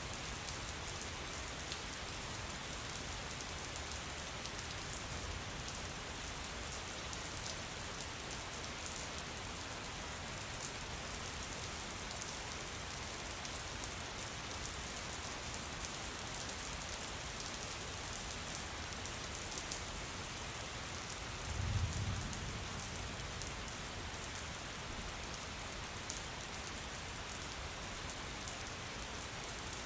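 Steady rain falling, a dense hiss with fine pattering drops. About two-thirds of the way through there is a brief low rumble.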